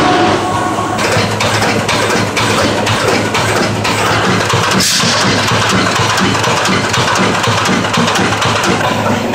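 Schlatter MG 303 wire-mesh welding machine running: a steady low hum under a continual, irregular clatter of sharp clicks and knocks.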